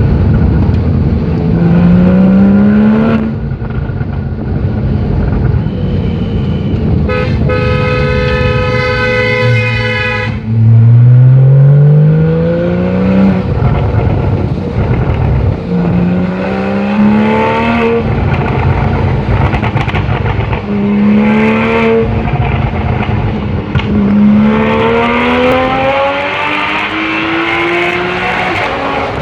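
Porsche 911 Carrera GTS's flat-six engine through a loud IPE exhaust, accelerating hard with its pitch rising and dropping back again about five times as it pulls through the gears. A steady horn-like tone sounds for about three seconds in the middle.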